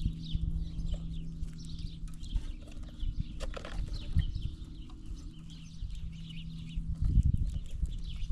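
Soft thumps and scrabbling of squirrels and birds moving and feeding on a peanut table close to the microphone, with small birds chirping throughout and one sharper call or clatter about three and a half seconds in. A steady low hum lies under the first half.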